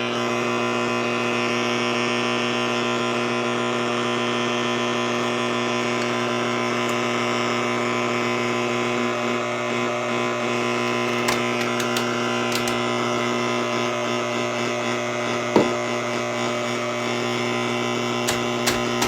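Steady electrical hum made of several even, unchanging tones. A few light clicks come in the second half, with one sharper knock a little after fifteen seconds in.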